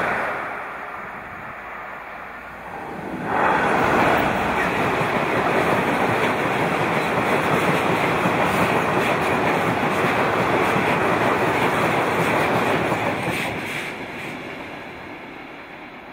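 A passing train's noise dies down. A little over three seconds in, the much louder noise of a freight train of bogie tank wagons cuts in abruptly as the wagons run past at speed, their wheels running on the rails. It holds steady, then fades over the last few seconds as the end of the train goes away.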